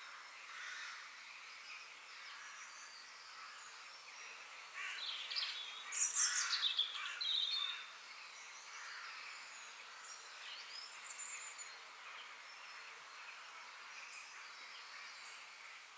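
Several birds chirping and calling, with a louder stretch of song from about five to eight seconds in.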